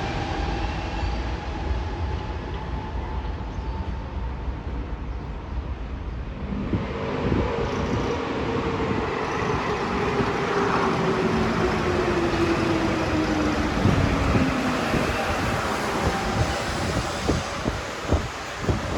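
Rubber-tyred Santiago Metro train running through the station. Its motor whine falls steadily in pitch as it slows, and near the end comes a run of regular knocks.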